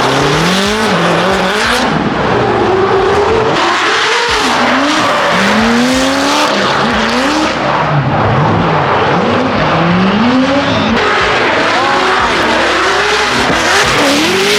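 Drift cars sliding past at close range, their engines revving up and down again and again over screeching tyres.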